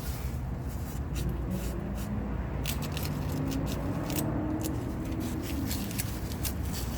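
Hands working wet FiberFix resin wrap around an exhaust pipe: scattered rustling, squishing and scraping over a steady low background hum.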